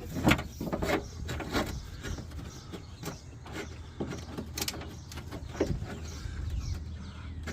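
Scattered clicks, knocks and rattles of a door latch assembly being worked down into the hollow inside of a pickup truck door.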